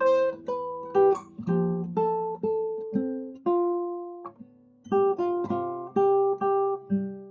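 Background music: an acoustic guitar plucking a slow melody, each note ringing and fading, with a short pause about four seconds in.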